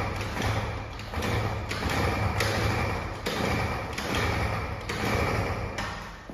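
Scooter engine revved in a run of about eight short throttle blips, each swelling and dropping back, over a steady low running note; the blips fade near the end.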